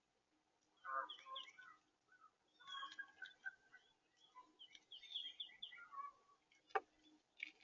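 Several birds chirping and calling in quick overlapping bursts of short notes, with one sharp knock near the end.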